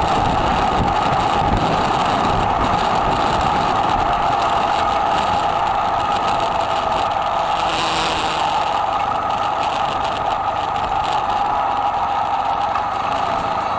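Kawasaki W800's air-cooled parallel-twin engine running through an aftermarket muffler while riding, recorded close to the engine from the right-side engine guard. The engine note dips a little midway and climbs again near the end, over road and wind noise.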